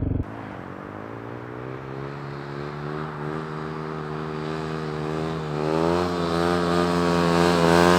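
Dirt bike engine running under throttle, its pitch climbing and the sound growing steadily louder. The note wavers and dips briefly about five and a half seconds in, then rises again.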